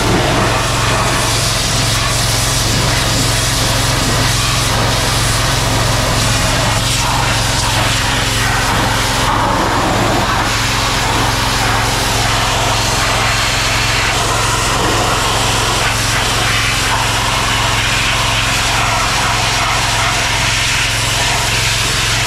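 An engine running steadily at a constant speed, with a broad hiss over it.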